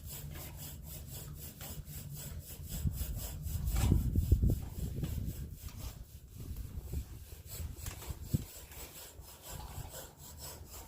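Duroc pig scratching itself against wood, a steady run of rhythmic rasping rubs a few times a second, louder for a moment about four seconds in.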